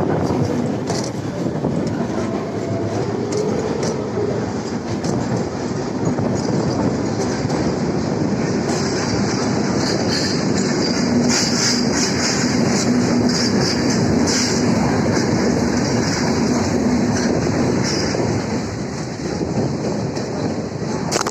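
Indian suburban electric local train running on the rails, with a steady rumble and the clatter of wheels over rail joints. Through the middle stretch a high-pitched screech of wheels on the rails rises over the running noise.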